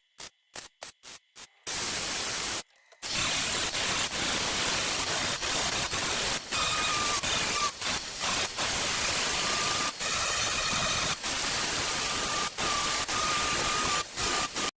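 MIG welding: several short bursts of the welding arc, then long, nearly continuous runs of welding broken by brief pauses.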